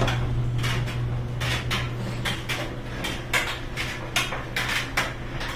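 GE electric dryer running on test after a new front bearing, drum glides and idler wheel: the motor and drum hum steadily with no screech. A metal zipper bangs against the drum, giving irregular metallic clanks about twice a second.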